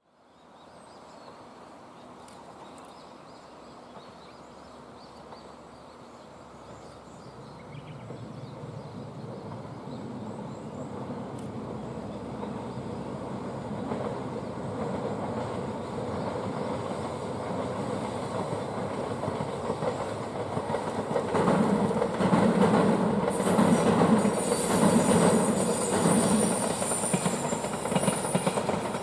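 2000 series diesel multiple unit train approaching, growing steadily louder over about twenty seconds, then passing close by with a rhythmic clickety-clack of wheels over rail joints.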